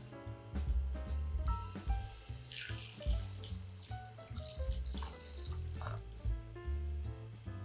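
Water running from a tap from about two and a half seconds in until about six seconds, over background music with a steady bass line.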